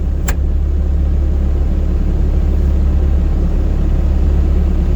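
Motor vehicle engine running steadily, a constant low rumble, with one sharp click about a third of a second in.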